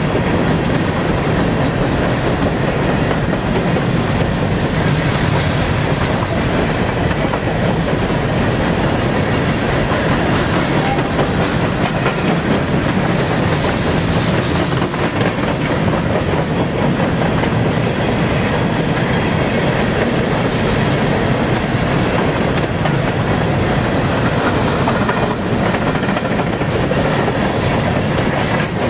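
Empty covered hopper cars of a freight grain train rolling past, a steady loud rumble of steel wheels on rail with clattering over the track.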